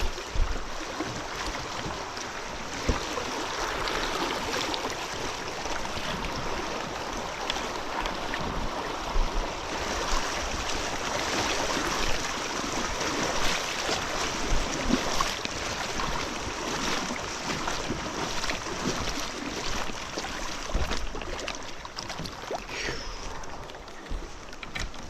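Steady rush of flowing river water, with scattered short knocks and bumps from handling around the kayak.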